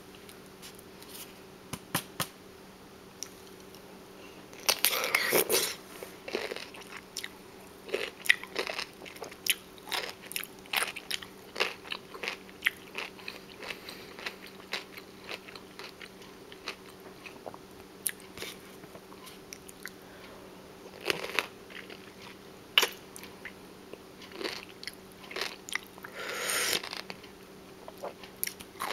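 Close-up biting and chewing of crunchy food: several big crunching bites, about five seconds in and again near the end, with quick wet chewing crackles between them. A faint steady hum lies underneath.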